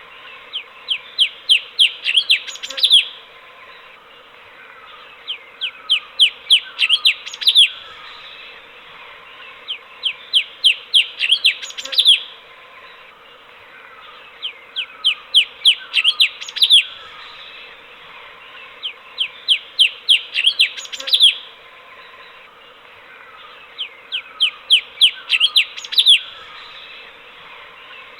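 Cucak cungkok, a bulbul, singing: six repeated phrases of about eight to ten quick chirps that build up and end on a louder note, one phrase every four to five seconds, over a steady hiss.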